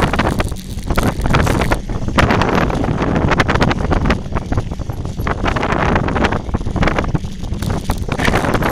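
Heavy wind buffeting on the microphone, mixed with rapid, irregular clattering and crunching from riding down a rough dirt forest trail.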